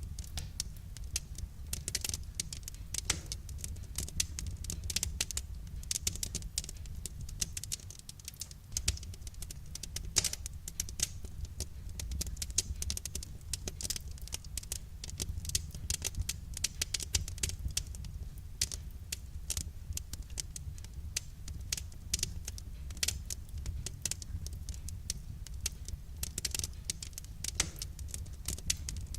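Wood fire crackling: a dense, irregular stream of small snaps and pops from burning firewood over a steady low rumble.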